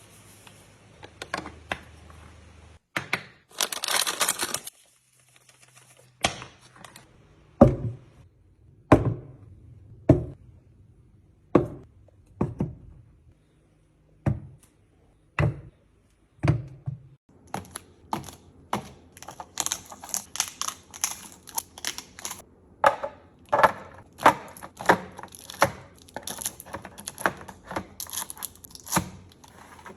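Kitchen items and containers being handled and set down: a string of sharp knocks and clacks that grows denser and quicker in the last third, with a packaging rustle or tear of about a second and a half a few seconds in.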